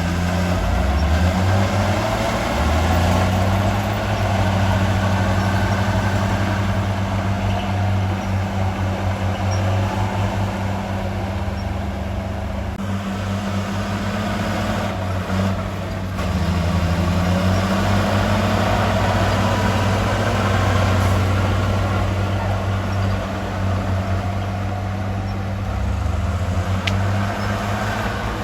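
Heavy diesel engine of earthmoving machinery running continuously, its pitch rising and falling a few times as the load or throttle changes.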